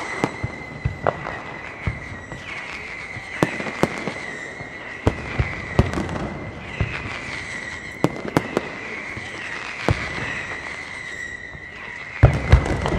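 Aerial fireworks display: shells bursting in scattered sharp bangs over a continuous high whistling, with a quick cluster of heavier bangs near the end.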